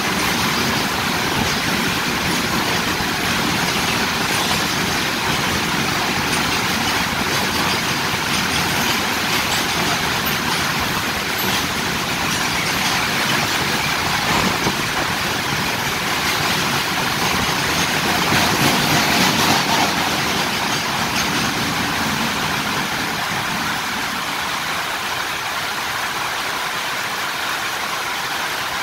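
Loaded coal freight wagons running past at speed: a steady noise of steel wheels on the rails, mixed with heavy rain falling. The noise eases a little near the end, leaving mostly the rain.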